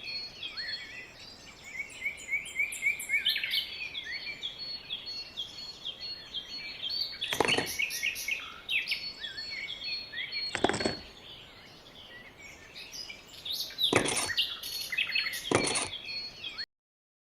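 Small birds chirping in a steady chorus of quick, high chirps that fall in pitch, with four louder sharp calls standing out. The sound cuts off suddenly near the end.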